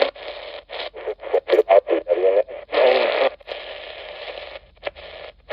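A radio receiver scanning across stations: brief snatches of voices cut in and out between bursts of static hiss, with a longer stretch of hiss about four seconds in.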